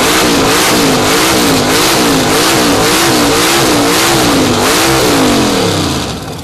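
Open-header engine of a 700-horsepower 1923 Ford T-Bucket hot rod revved hard and held at high revs, very loud. Its pitch wavers up and down about twice a second, then falls away near the end. It measures 122 decibels.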